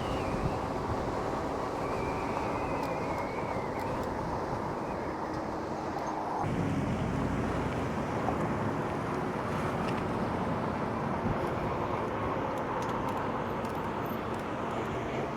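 Steady riding noise from an e-bike under way: wind buffeting the microphone over the hum of tyres on pavement. The low rumble grows about six and a half seconds in.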